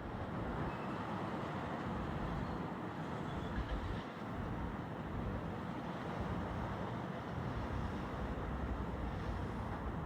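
Steady outdoor rumble and hiss with no clear tones, heaviest in the low range, with a brief louder knock about three and a half seconds in.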